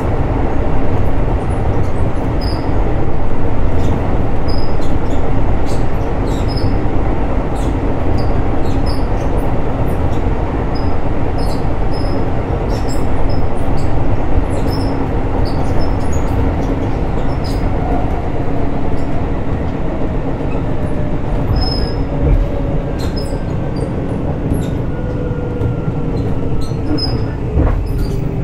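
Keisei 3600-series electric commuter train running, heard from inside the car: a steady rumble of wheels on rail with a constant motor hum and scattered light clicks. In the latter half a whine slowly falls in pitch as the train slows.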